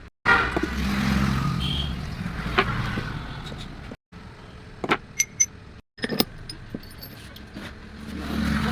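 Workshop sounds in short edited bits: a steady low vehicle-engine-like hum, and several sharp metallic clinks and pings, as of tools and metal engine parts being handled.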